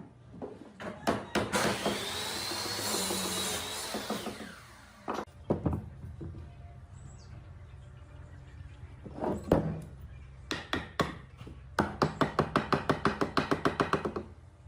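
Woodworking shop sounds: scattered knocks and taps on wood, a hissing, rushing stretch of about two seconds near the start, and near the end a fast, even run of loud knocks, about seven a second.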